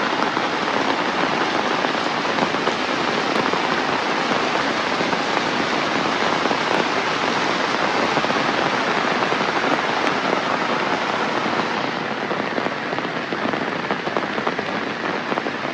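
Heavy rain falling steadily in a dense, even hiss, easing slightly near the end.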